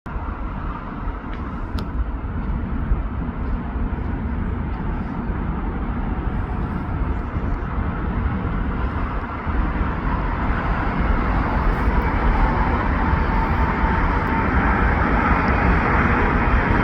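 Boeing 777 jet airliner on landing approach, its engine noise a steady rush with deep rumble that grows gradually louder as it nears, with a thin whine joining past the halfway point.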